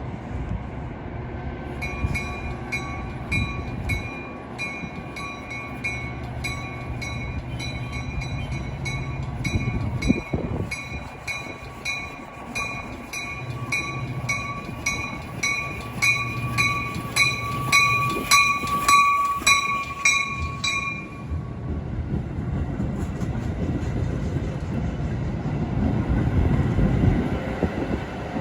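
Locomotive bell ringing steadily at about two strikes a second over the rumble of a Metra commuter train, then stopping about three quarters of the way through while the train's engine and wheel noise carry on.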